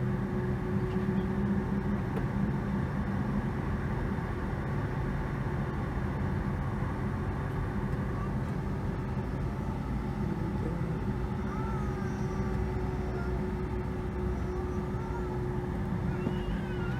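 Steady cabin noise inside a Boeing 757-200 with its engines running at low power, a constant hum with a steady mid-pitched tone over it. A few faint wavering higher sounds come in during the second half.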